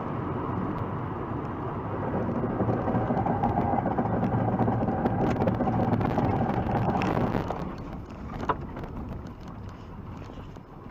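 Steady car driving noise that grows louder, then drops off sharply about seven and a half seconds in, with a single sharp click about a second later.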